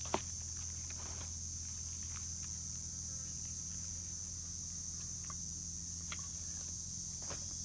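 Steady high-pitched chorus of insects, with a few scattered sharp clicks and light knocks over it, the sharpest just after the start.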